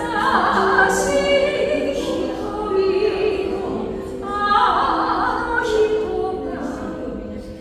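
Music: lyre tones ringing on at length, with a singing voice in two long phrases over them.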